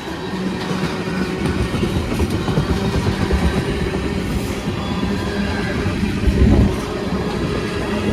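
Train rolling past, its cars' wheels rumbling steadily over the rails, with one louder knock about six and a half seconds in.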